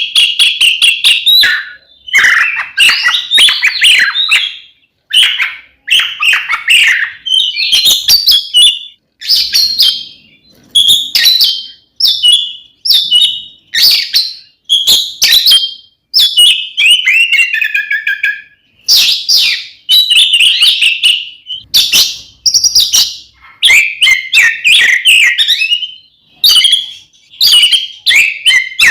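Oriental magpie-robin (kacer) singing loud, varied phrases of rapid whistles and harsh trills, broken by short pauses. This is the agitated full-voiced fighting song used to provoke other magpie-robins.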